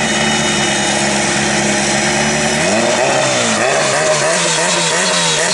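Modified Honda Civic hatchback's four-cylinder engine idling steadily, then about halfway through revving up and swinging up and down in quick repeated rises and falls, about two a second, as the revs are built for a launch.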